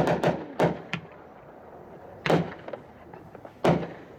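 Pool Party, a 32-shot 500-gram consumer fireworks cake, firing. Several sharp bangs come in quick succession in the first second, then single bangs at about two and a third and about three and two-thirds seconds in.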